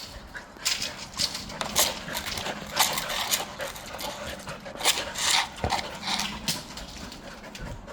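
Dogs making a run of short, irregular noisy sounds, some of them sharp, with a faint whimper-like quality.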